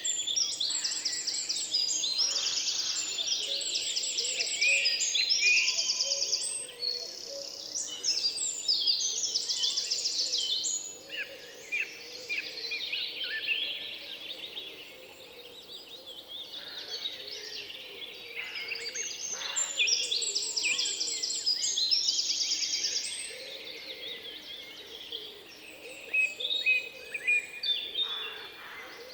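A chorus of several songbirds singing at once: overlapping high chirps and fast trills, thinning out for a few seconds around the middle and again near the end.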